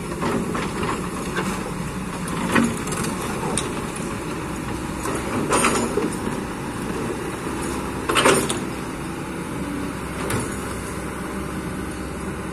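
Kobelco hydraulic excavator's engine running steadily under load, with four short clanks and scrapes of the bucket working among rocks, the loudest about eight seconds in.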